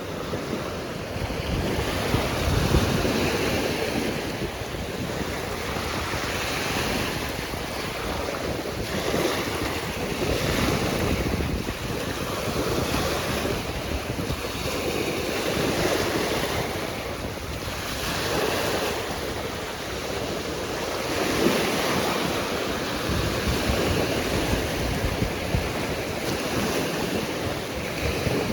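Ocean surf breaking and washing ashore, the noise swelling and fading about every three seconds, with wind rumbling on the microphone.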